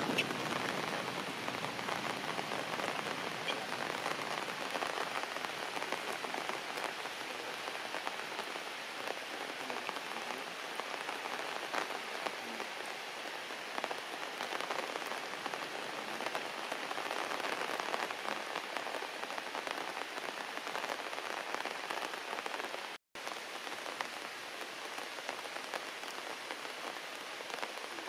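Heavy rain falling steadily on leafy plants and wet ground, an even hiss of drops, with one brief cut-out about five seconds before the end.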